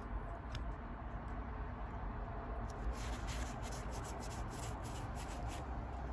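Trading cards handled and slid past one another by hand: soft rubbing with light, irregular ticks, over a steady low hum.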